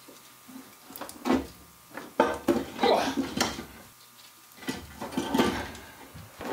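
Irregular metal clanks, knocks and scraping from hands and tools working on a car engine as the stuck intake manifold is worked loose, busiest about two to three and a half seconds in and again around five seconds.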